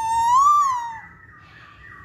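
Poksay Hongkong laughingthrush giving one loud whistled note of about a second that rises and then falls in pitch, followed by fainter, thinner notes.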